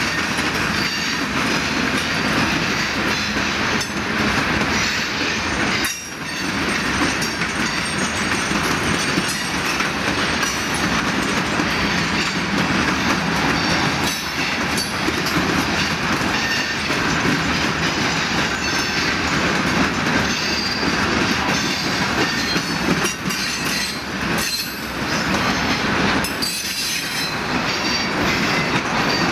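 Freight train cars rolling past: the steady rumble and rattle of steel wheels on the rails as hopper and tank cars go by, with a brief dip about six seconds in.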